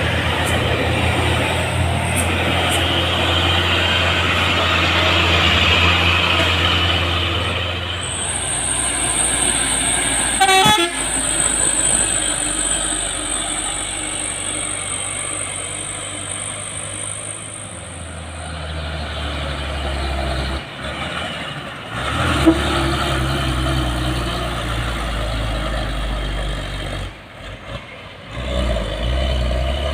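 Heavy truck diesel engines running under load on a climb, with a short horn toot about ten seconds in.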